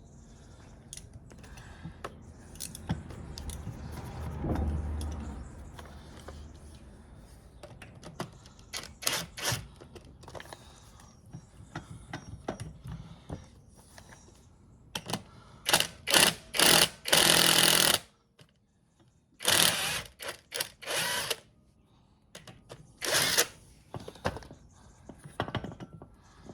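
Workshop tool noise while unbolting an engine's air conditioning compressor: irregular short bursts of a power tool or driver, with clinks of metal in between. The loudest, longest burst comes about two thirds of the way through.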